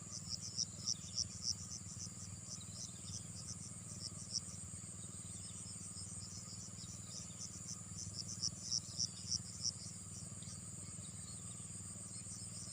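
Insects chorusing: a steady high drone with louder, high chirps pulsing in runs of about three a second, strongest about half a second in and again around eight and a half seconds in, over a steady low hum.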